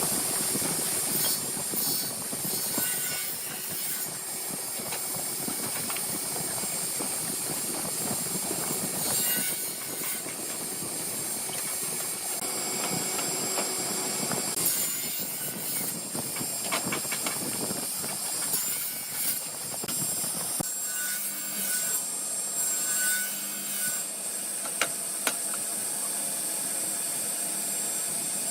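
Power woodworking machine cutting or abrading wood: a steady hissing rasp with a high whine and scattered clicks. The deeper part of the sound drops away about twenty seconds in.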